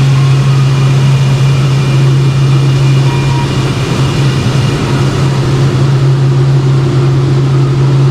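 Steady, loud mechanical drone with a strong low hum that holds unchanged throughout, from the machinery and engines at a grain elevator's dump pit.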